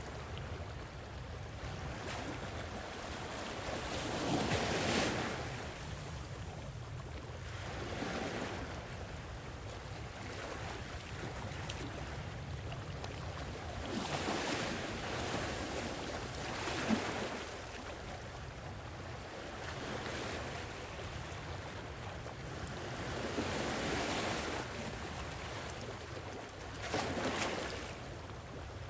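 Sea waves washing onto a shore, rising in about five slow surges over a steady low rumble of surf. There is one brief tick about two-thirds of the way through.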